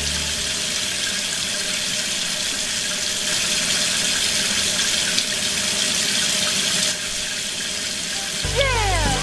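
A thin stream of water from a miniature water pump's hose splashing steadily into a wagon of wet sand and mud, turning a little softer about seven seconds in. Near the end, music with sliding tones comes in.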